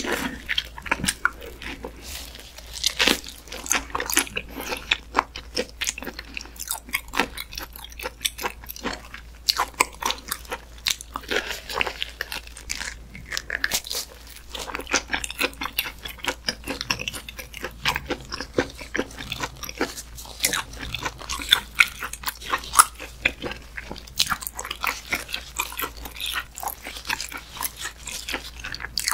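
Close-miked chewing of chewy raw muscovy duck meat (yukhoe): a continuous run of wet mouth clicks and smacks.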